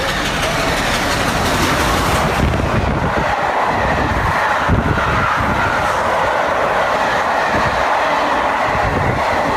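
Train hauled by a vintage locomotive running through at high speed: a loud, steady rush of wheel and wind noise.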